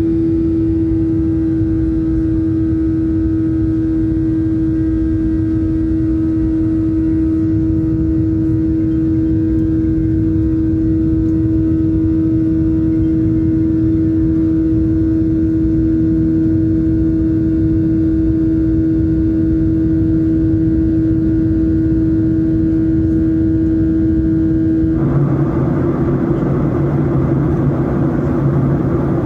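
Jet engine and cabin noise aboard a Boeing 737-800: a steady rumble carrying a strong held hum. It changes abruptly about 25 seconds in to a rougher, fuller roar.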